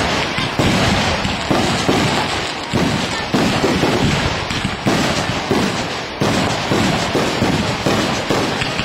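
Aerial fireworks bursting overhead in quick succession: a loud bang about every half second to second, each one fading off before the next.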